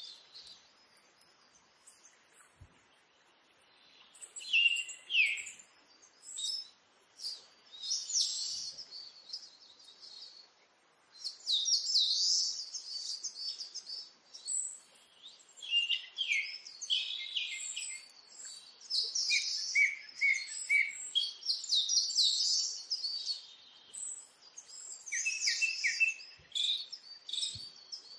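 Small birds chirping and twittering in short, high bursts with brief quiet gaps between them, beginning about four seconds in.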